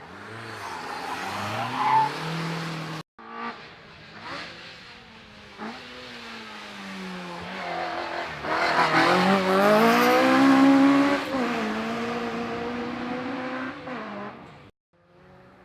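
Peugeot cars' engines accelerating hard up a hill climb, revs rising through the gears, with a cut between two cars about 3 seconds in. The second car's revs rise and drop at each gear change and are loudest as it passes, about 9 to 11 seconds in.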